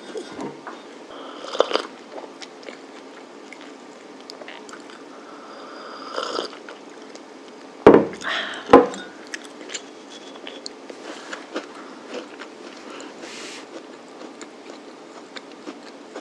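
Chewing and small mouth sounds of someone eating a soft madeleine cake. Just before eight seconds in come two loud, sharp knocks close together as a ceramic mug is handled on the table.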